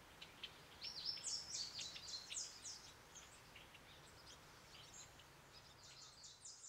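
Faint bird chirping: a quick flurry of short high chirps about a second in that thins out, then another cluster near the end, over a faint steady hiss.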